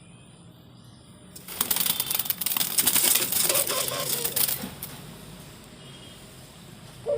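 Dove or pigeon fluttering in a cage: a loud, rapid clatter of wings and cage lasting about three seconds, starting about a second and a half in. A short coo starts near the end.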